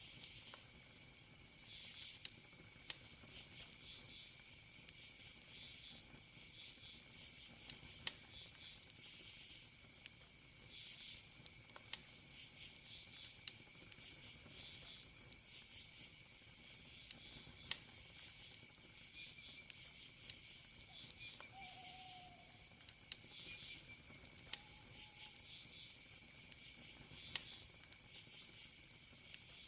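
Campfire crackling, with sharp pops every second or so, over crickets chirping in quick pulses and a steady high insect trill. A few faint short calls come in during the second half.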